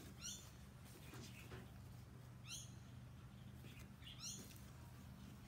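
Near silence with a faint steady hum, broken by a small bird chirping faintly three times, each a short rising chirp about two seconds apart.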